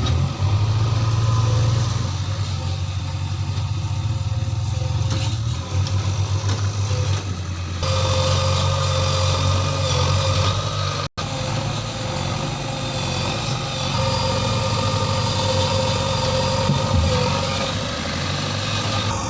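Heavy diesel engine of a JCB 3DX backhoe loader running steadily under work. A few seconds in, a higher steady whine joins the engine drone, and the sound cuts out for a moment about eleven seconds in.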